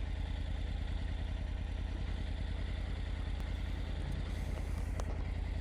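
Motorcycle engine idling steadily, a low, even hum.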